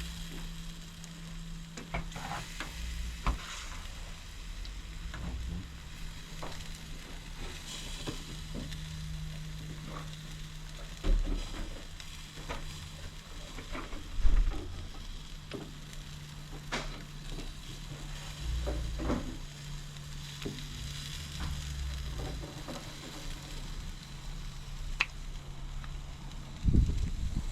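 Jerk chicken legs sizzling on a barbecue grill, with scattered pops and crackles over a steady low hum. Two dull thumps come near the middle.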